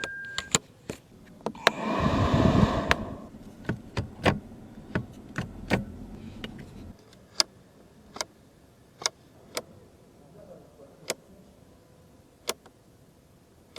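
Car cabin controls being worked: sharp clicks, roughly one a second, with a louder whirring rush about two seconds in and a low electric-motor hum from about four to seven seconds, like a power window moving.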